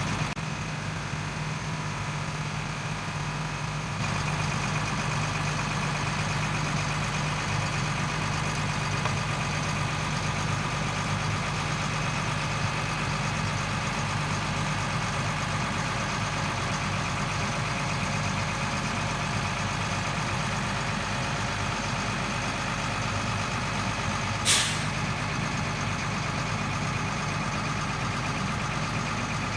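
LMTV M1078 military truck's diesel engine running steadily, with a short, sharp hiss of air, typical of the truck's air brakes, about three-quarters of the way through.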